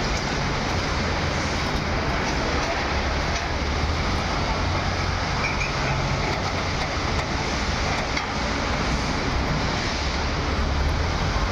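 Diesel engine of a Hydra mobile crane running steadily under load, a constant low drone with a wide rushing noise and no change in pace.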